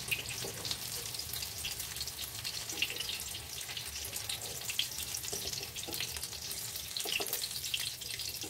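Cabbage cakes frying in hot mustard oil in a kadai: a steady sizzle full of quick crackles, with now and then the scrape of a metal spatula against the pan as the pieces are turned and lifted out.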